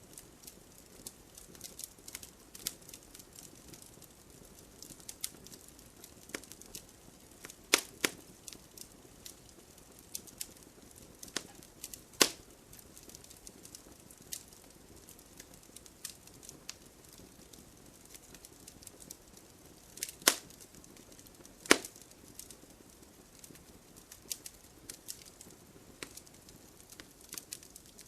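Logs burning in a fireplace: steady scattered crackling over a soft hiss, with a few sharp, much louder pops spread through.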